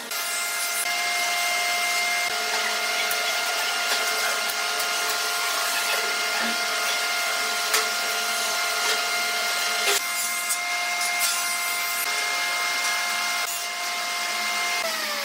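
Electric power tool motor running steadily with a high whine, working on wood. Near the end it winds down, its pitch falling.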